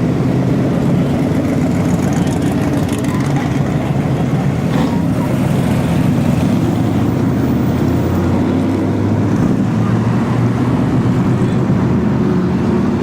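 Car engines running steadily as cars drive slowly past in a line, a low, continuous engine note that shifts a little in pitch as cars come and go.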